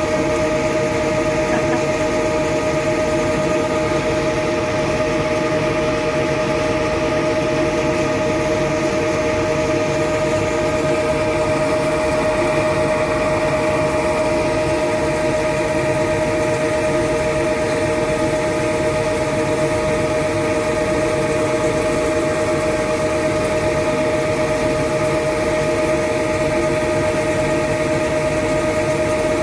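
Engine-driven machinery running at a steady speed: a constant drone with a strong, high, unwavering whine over a low rumble.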